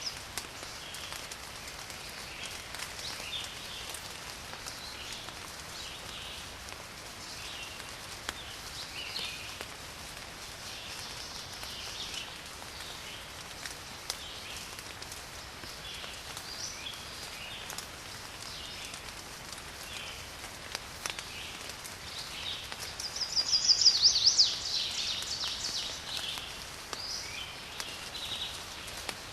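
Steady light rain with small birds chirping throughout and scattered drop ticks. Near the end one bird gives a louder, rapid call.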